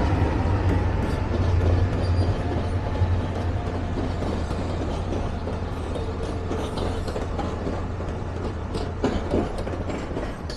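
Lehigh Gorge Scenic Railway train passing: a low diesel rumble that slowly fades as the cars roll by, with wheels clicking over the rail joints in the second half.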